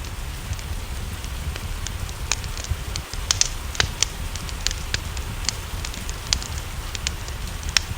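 Wood fire crackling with sharp, irregular pops, several a second, over a steady hiss of rain and a low rumble.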